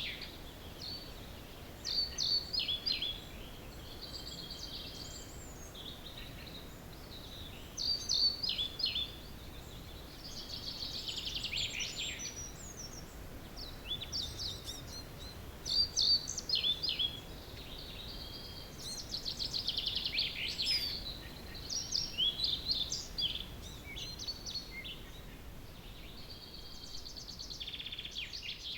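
Dawn chorus of several songbirds singing. Short phrases, some trilled and some falling in pitch, follow one another every second or two over a faint background hiss.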